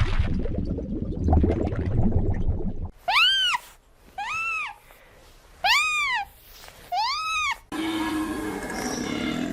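Domestic cat meowing four times, each meow rising then falling in pitch, about a second apart. Before the meows there is a low rumbling noise, and a different animal sound starts right after them.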